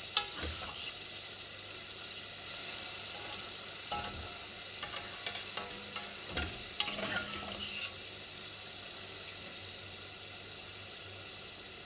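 Pasta sizzling in a pan of onion, anchovy and bottarga sauce as it is stirred, with a utensil knocking against the pan several times. After about eight seconds the knocks stop and only a steady, slightly quieter sizzle remains.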